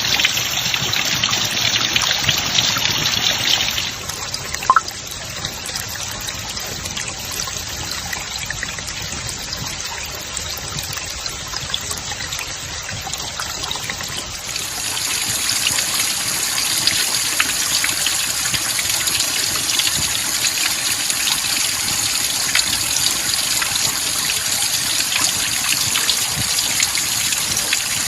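Steady rush of running water. The sound changes abruptly about four seconds in and again about halfway through, as at cuts between shots. A brief sharp sound comes about five seconds in.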